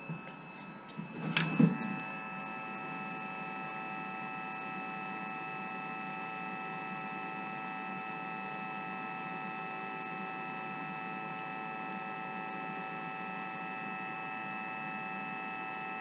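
A short knock about a second and a half in, then a steady electrical whine of several high tones held unchanged.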